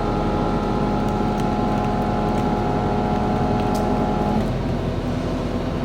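Excavator's diesel engine running steadily, with higher steady tones over it that drop away about four seconds in as the load changes.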